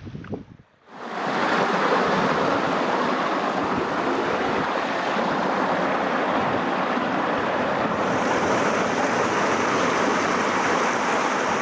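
Mountain stream water rushing steadily over rocks, close and loud, starting about a second in.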